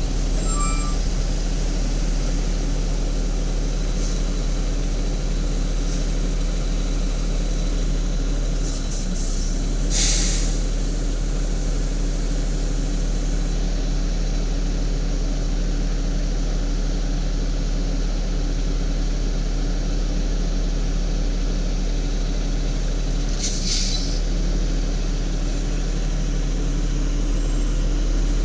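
Garbage truck engine running steadily at idle, with a short release of air-brake hiss about a third of the way in and again near the end.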